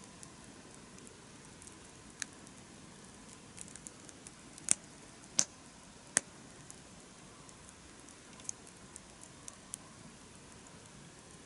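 Wood campfire burning, with a faint steady hiss and scattered crackles, including three sharp pops in quick succession near the middle.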